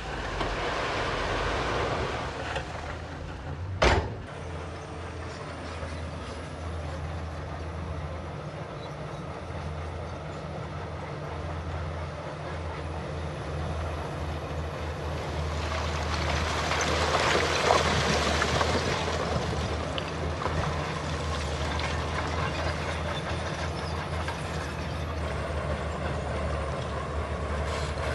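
Heavy diesel earthmoving machinery running steadily at a low drone. A single sharp knock about four seconds in, and a louder, noisier swell a little past the middle.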